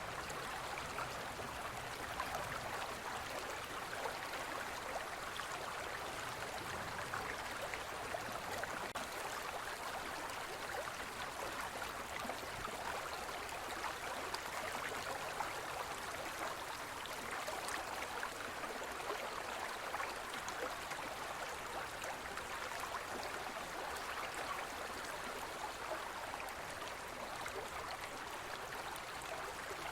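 Shallow forest river or stream flowing steadily over stones, a continuous even babble and splashing of water.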